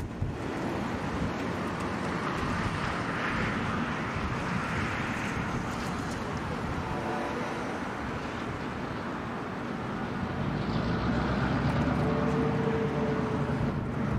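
Diesel-hauled train running on the rails, a steady rumble and rush of rolling noise throughout.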